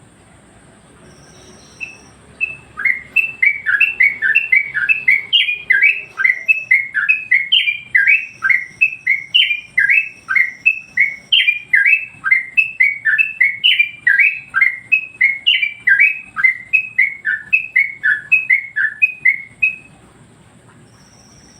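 Trucuk bird (yellow-vented bulbul) singing: a fast, loud run of repeated descending chirps, about three a second, starting about two seconds in and stopping near the end.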